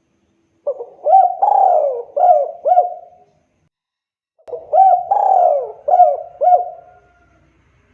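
Spotted dove (tekukur) cooing: two song phrases, each a short opening note followed by a run of four or five rising-and-falling coos, with a short pause between the phrases.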